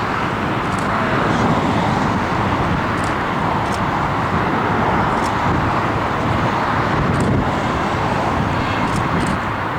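A steady, even roar of distant engine noise that holds at one level throughout, with a few faint light ticks.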